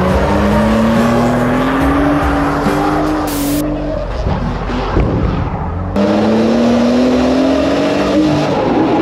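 Car engine accelerating hard, its pitch rising steadily for about three seconds. About six seconds in the sound changes suddenly into another rising run of the engine.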